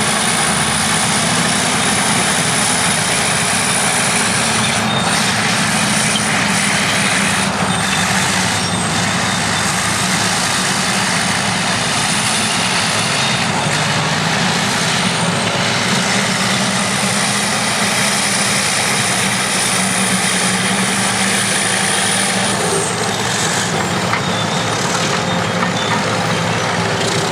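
Vintage diesel crawler bulldozers and scrapers working together, their engines running loudly and steadily under load, with a few clanks. A thin high whine comes and goes over the engine noise.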